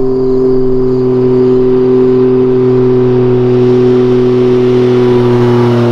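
Can-Am Ryker Rally engine running through a Two Brothers S1R exhaust, held at steady revs with the pitch sagging slowly, then dropping as the throttle eases at the very end.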